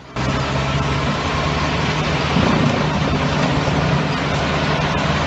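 Drum wood chipper driven by a Deutz diesel engine, running with a steady engine hum under a dense grinding noise that cuts in suddenly at the start.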